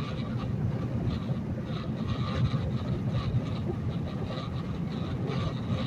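Peterbilt semi truck's engine and road noise, a steady low drone heard from inside the cab while driving on the highway.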